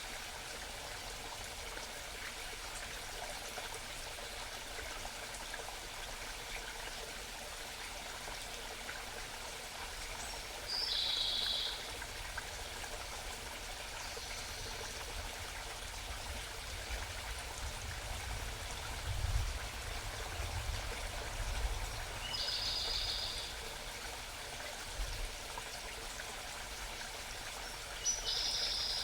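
Steady babbling of a small mountain stream, with a songbird giving short, high trilled calls about four times. Some low rumbling comes in around the middle.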